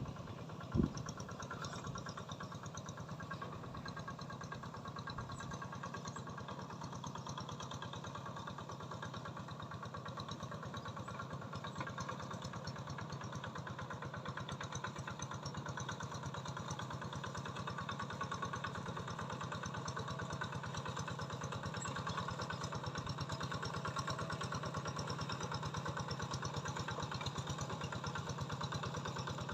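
An engine running steadily at an even idle-like speed, with one sharp knock about a second in.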